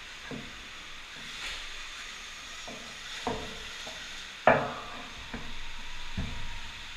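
Electric dirt bike riding on an indoor dirt track: a steady hiss with about six knocks and thumps from the bike and tyres over the ground, the loudest a sharp knock about four and a half seconds in.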